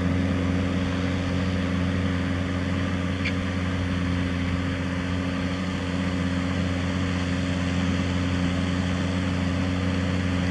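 Tractor engine running steadily with a low, even drone. A faint click comes about three seconds in.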